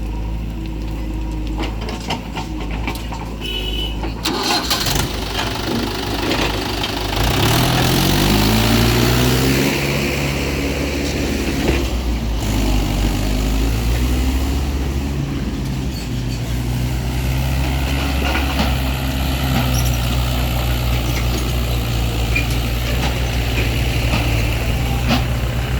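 Heavy diesel engine of earth-moving machinery running, with a few knocks about four seconds in, then revving up between about seven and ten seconds and holding steady at higher revs as if under load.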